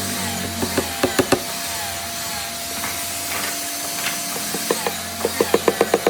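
Sharp knocks on wood over a steady workshop machine hum: a few scattered knocks, then a quick run of them about five seconds in.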